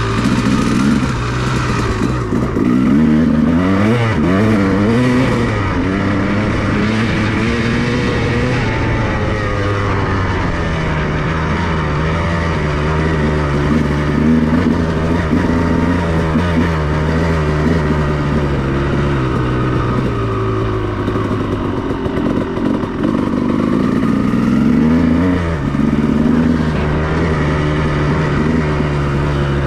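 2002 Honda CR250R's 250 cc two-stroke single-cylinder engine under way, revving up and down a few seconds in and again near the end, holding a steadier note in between.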